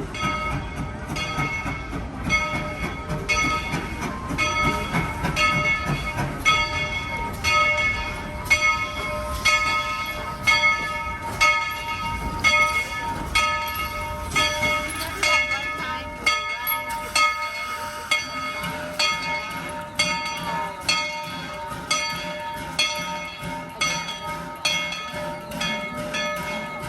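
Steam locomotive's bell clanging in a steady rhythm, about one and a half strikes a second, over the low rumble of the moving train, which fades away about halfway through.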